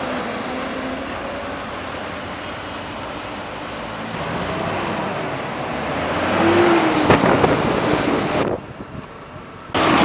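Street traffic: vehicles passing close by, one swelling up and passing loudly about two-thirds of the way through, with a sharp click. The sound drops away abruptly near the end, then comes back.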